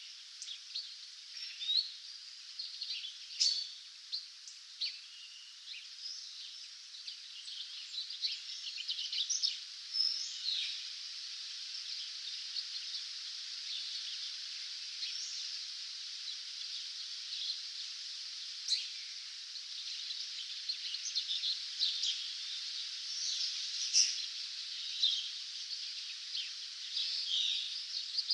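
Songbirds singing in a dawn chorus: many overlapping short chirps, trills and quick whistles from several birds, over a steady high hiss.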